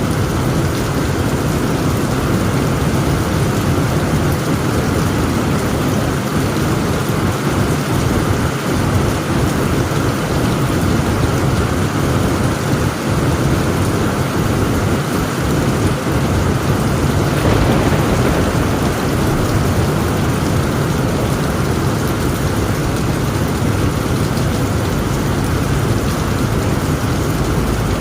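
Heavy rain falling steadily on a tent roof, with a low rumble of thunder underneath that grows stronger a little past halfway.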